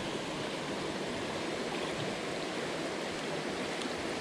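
Jungle headwater stream flowing in a steady, even rush of water.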